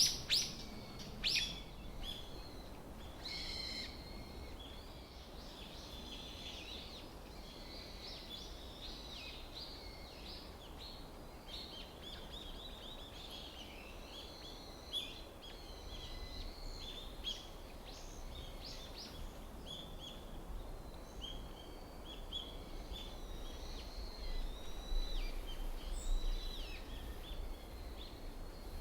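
Many small songbirds chirping and calling, short high calls overlapping one another all the way through, over a low steady rumble. A few sharp clicks in the first second or so.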